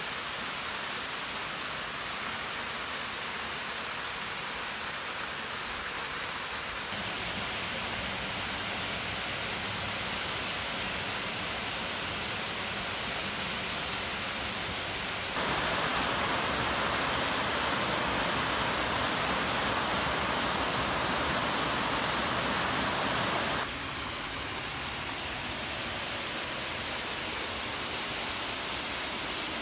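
Steady rushing of water falling at a frozen waterfall, an even hiss that jumps to a new level three times, louder about seven seconds in, louder again about halfway, then quieter about three-quarters of the way through.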